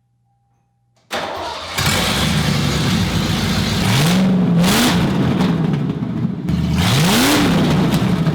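Car V8 engine, plausibly the 1989 Mustang LX's 302, starting about a second in and running loudly, revved up twice.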